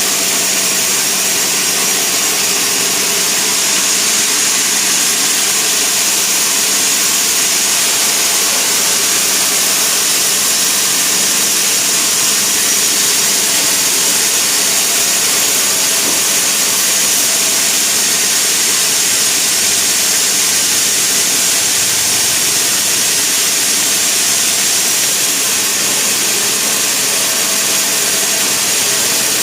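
Sawmill saw cutting through a log: a loud, steady hiss with a faint hum underneath.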